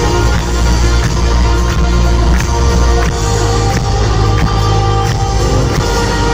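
Live rock band playing loudly, guitars and bass under a steady drum beat, with no vocals in this stretch. It is heard from within a stadium crowd.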